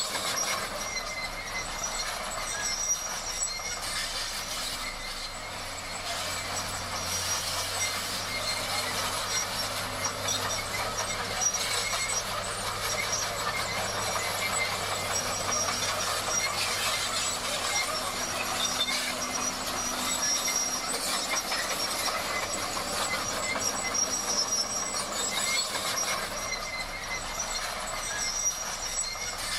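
Crawler bulldozer at work: a steady mechanical clatter with high-pitched squealing and rapid clicking, as from steel tracks running over their rollers and sprockets, over the engine.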